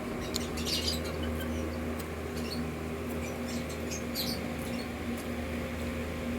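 Close-miked mouth sounds of someone chewing crispy fried chicken intestines: a few short, crisp crunches and smacks over a steady low hum.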